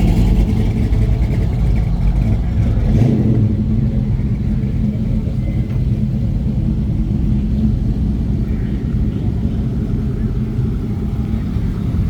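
Car engine running at low revs: a steady, loud, deep rumble.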